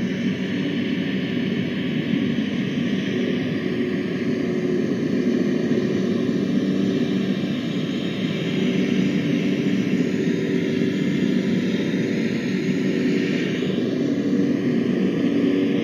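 Steady drone of an aircraft engine: a low hum with a hiss above it, holding level throughout.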